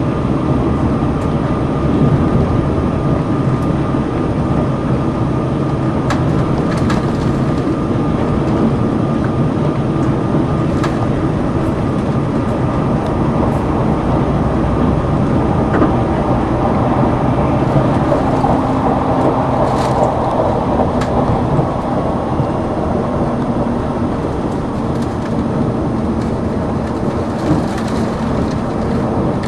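Inside a limited express Sonic tilting train running at speed: steady rumble of wheels on rail and running noise, with a few faint clicks.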